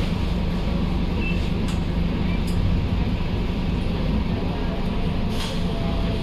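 Scania K230UB bus's five-cylinder diesel engine running steadily, a low drone, with a few faint clicks, the plainest about five seconds in.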